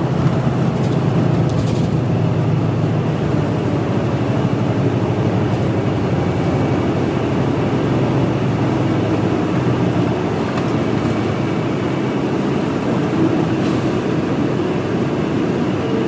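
City bus running, heard from inside the passenger cabin: a steady engine drone with road noise, the low engine tones easing about ten seconds in.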